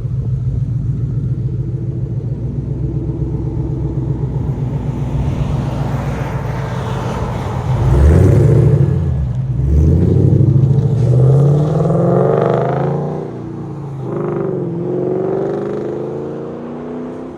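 2006 Ford Mustang GT's 4.6-litre V8 through an aftermarket exhaust, idling steadily, then revved at about eight seconds and pulling away: the pitch climbs, breaks for a gear change around thirteen seconds, climbs again and fades as the car drives off.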